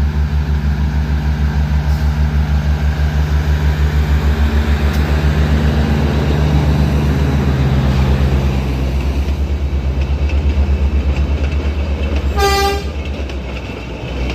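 Matheran mini train locomotive running with a fast, pulsing engine beat. It sounds one short horn toot near the end.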